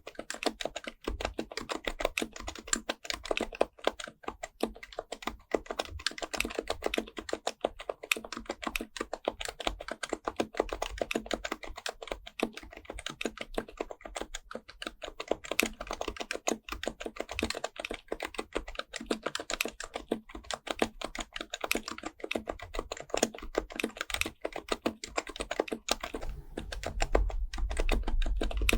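Fast, continuous typing on an HHKB Professional Type-S keyboard (with BKE-9400A), its muted Topre keys clicking in a rapid stream. A low rumble comes up under the clicks near the end.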